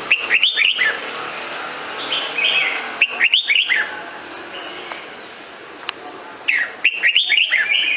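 Red-whiskered bulbul singing: three short phrases of quick, rising and falling whistled notes, about three seconds apart.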